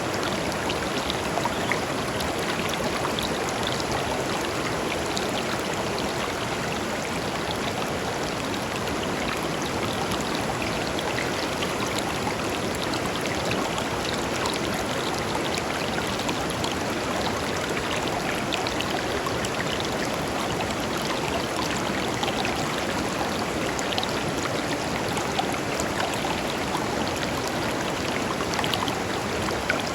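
A river flowing over stones, a steady rush of water with many small splashes and trickles.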